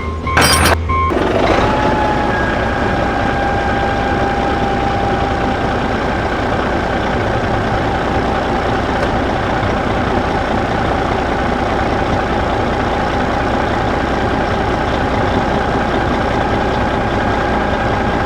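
Small DC motor of a model tractor-and-pump build switching on with a click, then running with a steady whine and buzz, cutting off suddenly at the end.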